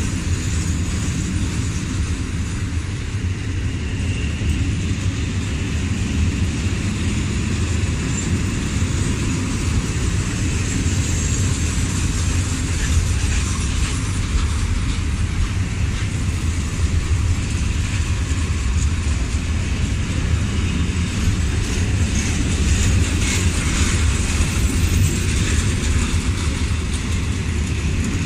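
Train rolling past: a steady rumble of wheels and wagons, with some rattling near the end.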